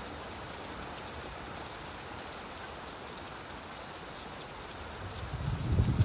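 Steady rain falling, with a low rumble of thunder swelling about five seconds in and peaking at the very end.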